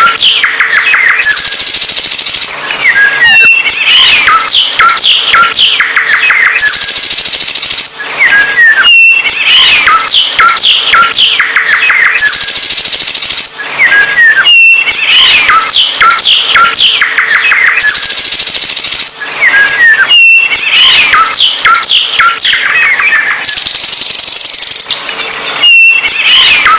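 A songbird singing a loud, fast, varied song of whistles, sweeps and trills, the same sequence coming round again about every five and a half seconds.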